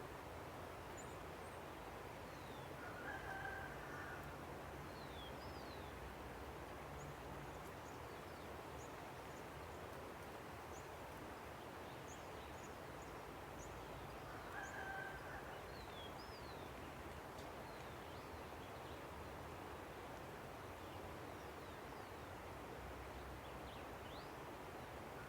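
Steady rush of a river with small birds chirping, and a rooster crowing twice, about 3 seconds in and again about 15 seconds in.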